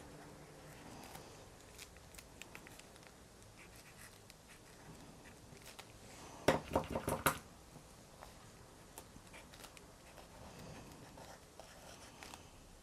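Pen scratching and clicking faintly on a journal page, with a quick run of about five sharp taps about six and a half seconds in.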